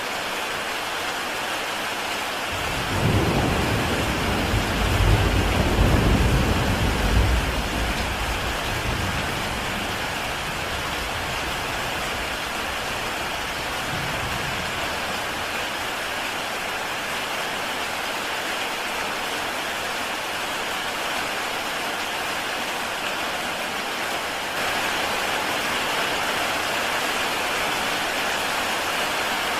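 Heavy rain falling steadily on a tile roof, with a roll of thunder that comes in a few seconds in, rumbles loudest for several seconds and fades away, followed by a fainter rumble a little later.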